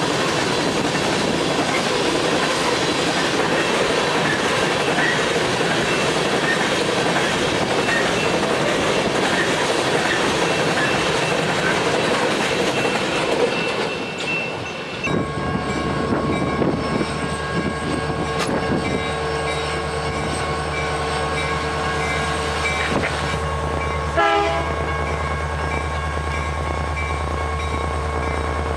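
Long freight train of coal hopper cars rolling past close by, with a dense steady rush of wheel and rail noise. About halfway through this gives way to a steadier low hum with several held tones.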